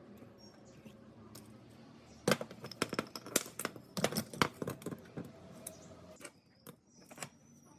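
Irregular sharp clicks and taps of small metal parts and hand tools being handled, starting about two seconds in and stopping a little after six seconds.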